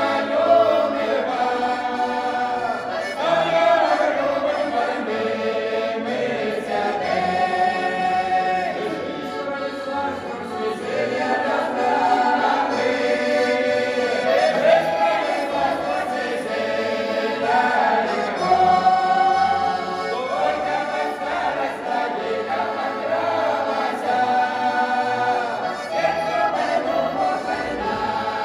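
A folk ensemble of voices singing a popular Russian song in chorus, in sustained, held phrases.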